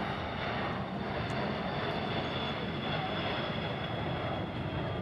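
Aircraft engine noise from a fixed-wing aircraft at an air display: a loud, steady rushing roar with a faint high whine running through it.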